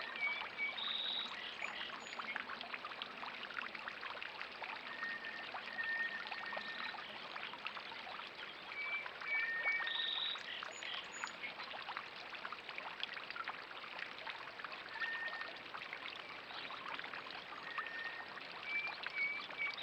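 Water trickling and splashing steadily into a bird bath, with short high bird chirps now and then over it.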